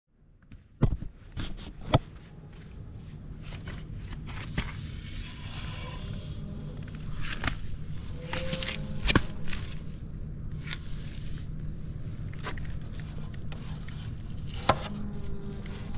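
Kawasaki GPX250 parallel-twin engine cold-starting: a few sharp clicks near the start, then the engine catches about two seconds in and settles into a steady idle that grows a little louder over the next few seconds. It runs evenly with no abnormal noise, with a few separate clicks over the idle.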